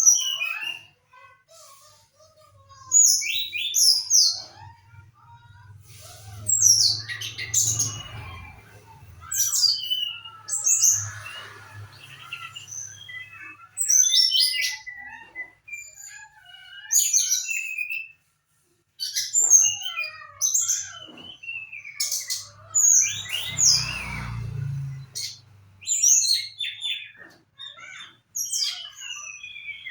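Trotol songbird singing: a run of short high chirps, trills and sweeping whistled notes with brief pauses between phrases, the kind of song track played as 'pancingan' to set a kept trotol singing. A low hum rises under the song twice.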